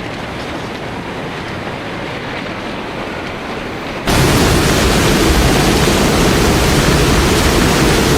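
Steady noise of rushing floodwater. About four seconds in it cuts suddenly to a much louder, fuller rush.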